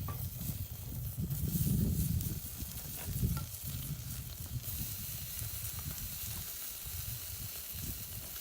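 Meat sizzling on a grill over charcoal: a steady hiss with small crackling ticks. A low rumble sits under it for the first couple of seconds, then fades.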